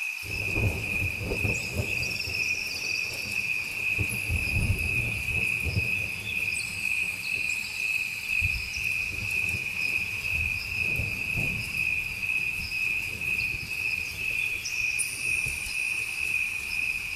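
A chorus of crickets at night: one steady, high, pulsing trill throughout, with other higher-pitched insect calls starting and stopping over it, and soft low rumbling underneath.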